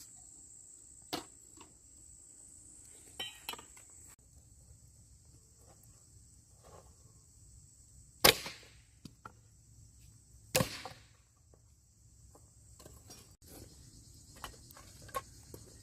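Crickets chirring steadily in the background, with a handful of sharp knocks, the two loudest about eight and ten and a half seconds in.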